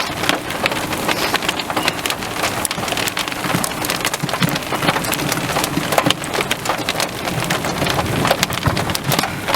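Steady rain with many sharp drop hits close to the microphone.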